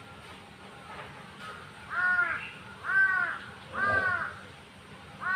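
A crow cawing four times, about a second apart: harsh, arched caws, the last just at the end.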